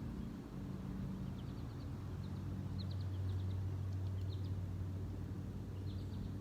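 Small birds chirping in short, quick, high-pitched clusters over a steady low motor hum, likely a distant vehicle, which swells slightly midway.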